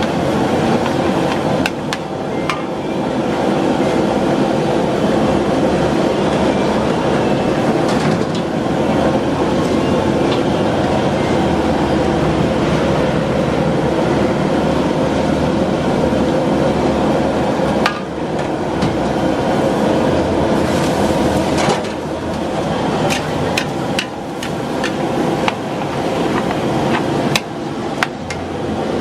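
Metal spatula striking and scraping a wok again and again while noodles are stir-fried, over a steady, loud rushing noise from the burner and frying.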